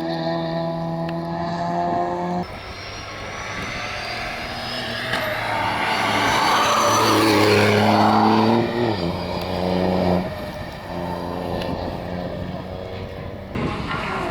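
Rally car engines at speed in short cuts: an engine holding steady high revs, then a car approaching and passing loudly, its engine note dropping sharply about eight and a half seconds in, then another engine running steadily until an abrupt change near the end.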